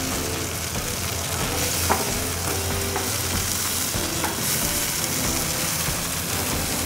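Natural-casing hot dogs sizzling steadily in butter on a hot flat-top griddle, with a wooden spatula scraping and nudging them a couple of times.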